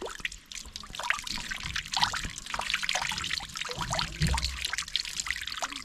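Water trickling and splashing in small irregular spatters, with a dull low thump a little past four seconds in.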